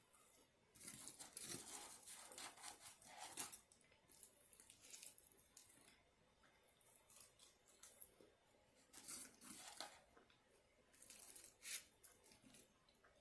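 Faint crinkling and crunching from eating a fast-food crispy chicken sandwich, the sounds of paper wrapping and biting, in several bursts: the longest early on and shorter ones near the end.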